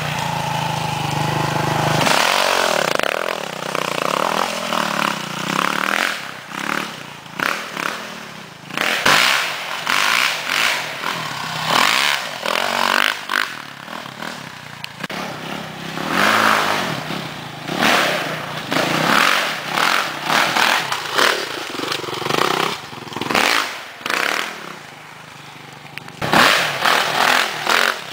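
2007 Suzuki RM-Z450's single-cylinder four-stroke engine revving in repeated bursts, rising and falling every second or two as the throttle is worked on and off.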